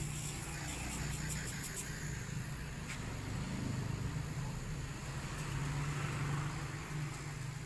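Steady low mechanical hum of a running motor, with a few faint clicks between one and two seconds in.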